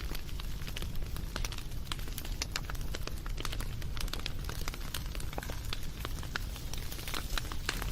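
Wood fire crackling: irregular sharp pops and snaps over a low steady rumble of the burning fire.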